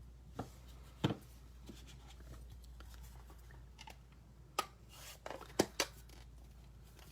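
A handful of short, sharp clicks and taps of stamping supplies being handled on a craft table, the clearest about a second in and near the end, over a low steady hum.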